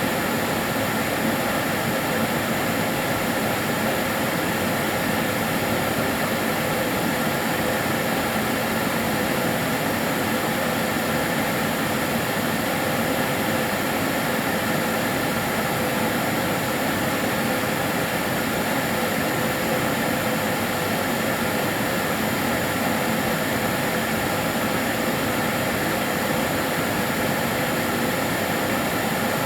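Kärcher DS 6 Premium water-filter vacuum cleaner running steadily: an even rush of motor and air noise with a few faint steady tones, unchanging throughout.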